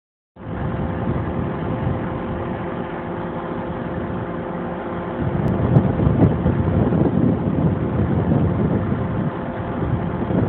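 GO Transit commuter train standing at the station, its diesel power giving a steady idling hum with a held tone; about halfway through, a louder, uneven rumble joins in.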